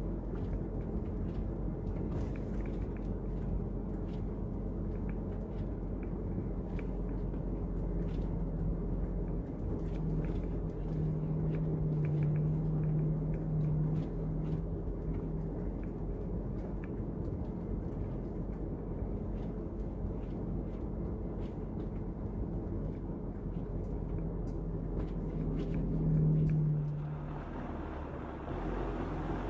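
Iveco gas truck's engine running steadily under way, with a low drone. The engine note swells briefly about 26 seconds in, then eases off.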